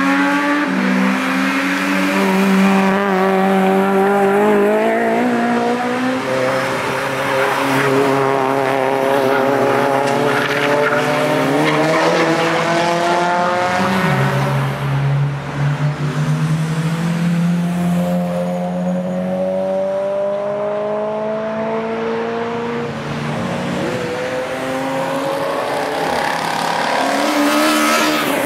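Honda cars driven hard on a racetrack: engines revving up through the gears, each climbing in pitch and dropping back at the gear changes. Several engines overlap as one car fades away and the next approaches, with a quick pitch swoop as a car passes close near the end.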